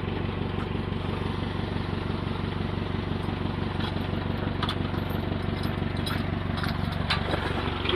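Vehicle engine idling steadily, with a few faint clicks partway through.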